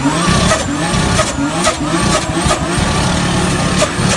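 Turbocharged Toyota Supra engine run hard at high revs, its exhaust note rising and falling, with several sharp cracks through it.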